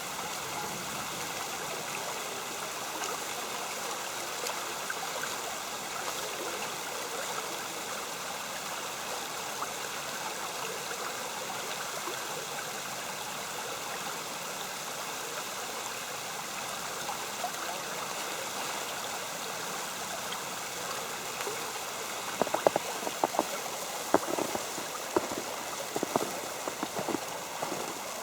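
Creek water flowing steadily. From about three-quarters of the way in, scattered sharp ticks join it, from snow hitting an umbrella or from steps.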